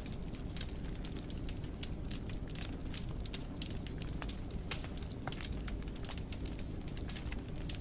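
Wood fire in a fireplace burning, with a low steady rumble and many quick, irregular crackles and pops.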